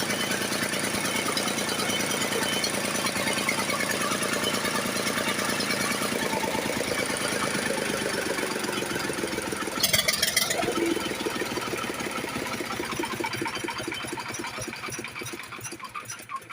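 Lister-type diesel engine running with a steady, rapid knocking beat. About ten seconds in there is a brief loud burst. Over the last few seconds it slows and fades as the engine runs down.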